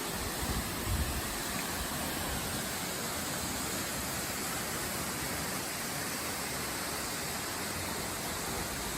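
Horsetail Falls, a 176-foot plunging waterfall, giving off a steady, even rush of falling water. A couple of brief low thumps sound about a second in.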